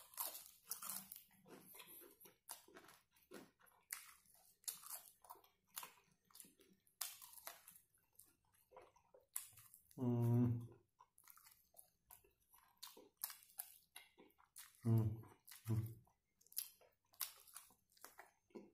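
Close-up chewing and biting of crispy fried chicken: irregular wet chewing with small crackles and crunches from the coating. A short voiced murmur comes about ten seconds in, and two brief ones come around fifteen seconds.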